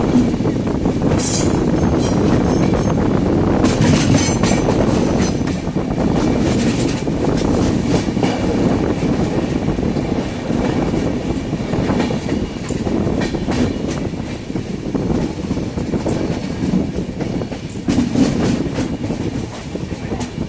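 Passenger train running along the track: a steady heavy rumble with the clatter of wheels over rail joints. The sound eases a little in the second half.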